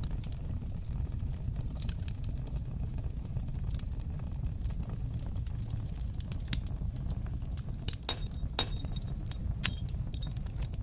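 Wood fire burning in a fireplace: a steady low rumble of flames with scattered small crackles, and a few sharper pops and snaps near the end.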